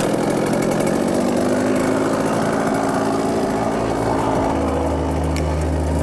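Small motocross bike engine running steadily at idle just after being started, a buzzing engine note; a deeper low hum joins in during the last second or two.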